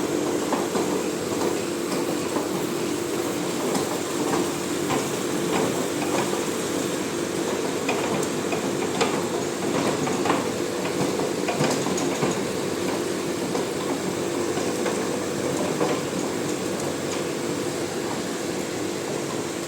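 Drilling machine running with a steady hum, with irregular clicks and rattles throughout.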